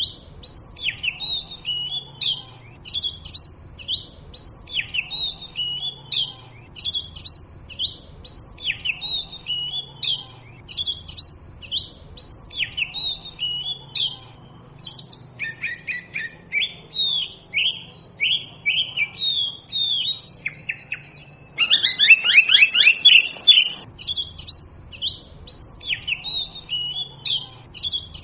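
Oriental magpie robin singing: a short high whistled phrase repeated about every second and a half, then a run of varied whistles. About three quarters of the way through, a louder, rapid series of descending notes lasts about two seconds before the repeated phrase returns.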